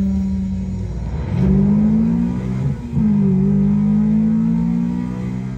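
Car engines revving in a TV demo clip, played back through the TV's wireless speakers and subwoofer. The engine note rises, breaks off near the middle and climbs again.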